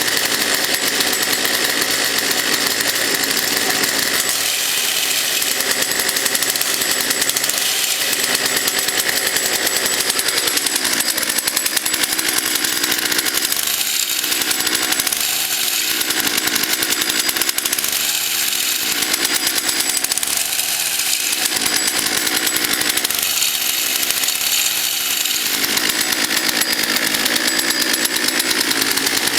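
Small two-stroke 33cc Poulan chainsaw engine on a homemade motorized bike running loud and continuously, its revs rising and falling several times.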